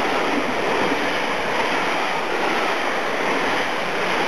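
Steady rushing noise of a train of passenger coaches running through a station at speed, wheels on rail and air swept along by the train.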